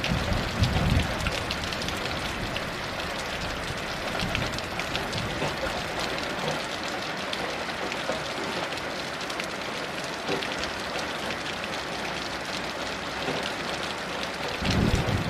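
Steady heavy rain, a dense hiss and patter of drops. Brief low rumbles come about a second in and again near the end.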